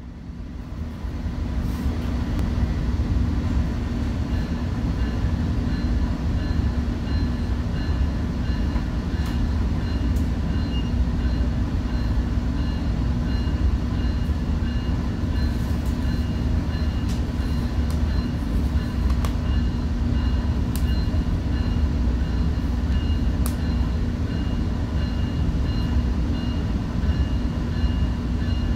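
Commuter train heard from inside a passenger coach: a steady low rumble with several constant hums over it and scattered light clicks. It fades in over the first two seconds.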